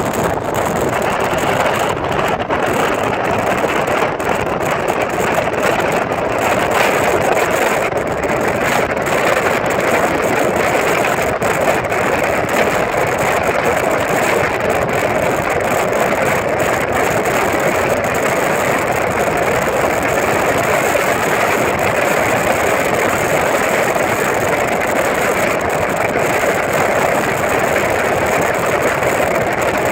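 Steady rushing noise of a train running at speed, heard from on board, with wind buffeting the microphone.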